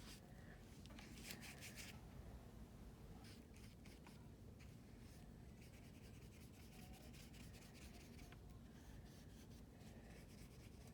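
Faint bristles of a water brush scrubbing back and forth across paper, in several short spells of strokes.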